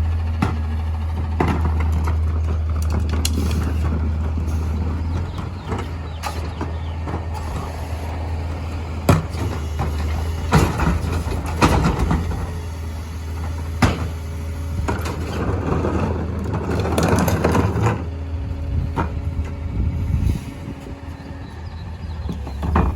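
Mini garbage truck's engine running with a steady low hum while it packs trash, with scattered sharp clanks and bangs and a few swells of noisier mechanical sound.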